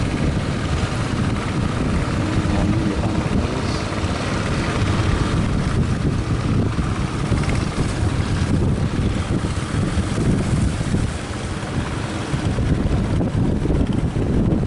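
Strong wind buffeting the microphone aboard a fishing boat at sea: a loud, steady, rumbling rush.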